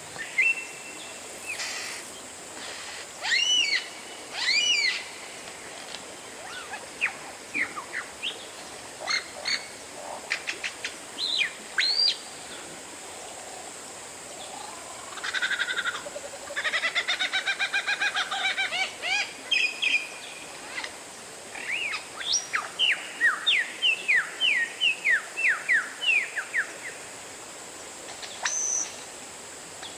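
Oriental magpie-robin (kacer) singing: a string of loud, varied whistled phrases with notes sliding up and down, and a fast repeated trill about halfway through.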